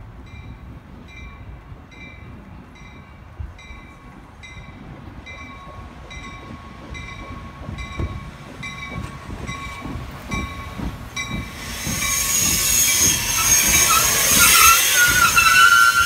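A bell dings steadily about twice a second as a Metra commuter train approaches the station. From about twelve seconds in the train pulls in alongside with a loud rush and a wavering squeal as it slows.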